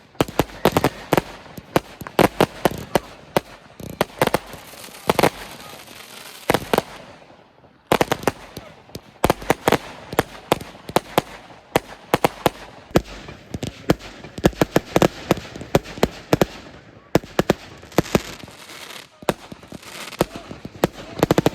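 Fireworks exploding in rapid, irregular bangs and crackles, with a brief lull about a third of the way through.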